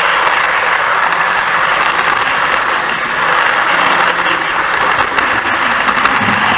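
A train running: a steady rushing noise with many scattered clicks.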